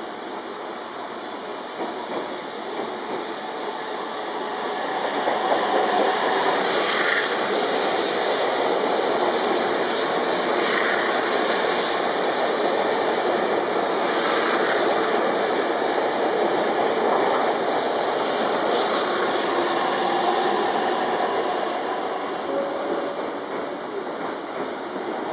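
Electric commuter train running past a station platform: a steady rush of wheels and cars that grows loud about five seconds in, holds, and eases off near the end, with a faint clack every few seconds.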